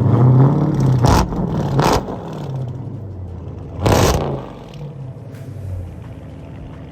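A car engine revving in several short blips, the loudest about four seconds in, then dropping back to a lower, steady running.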